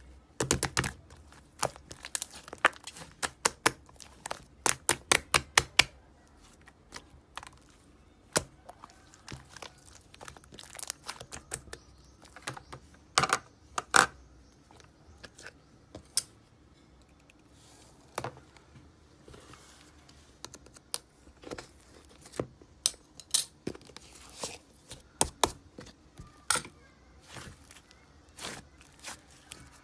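Slime being squished and poked by hand, giving sharp irregular popping clicks, some in quick runs of several a second.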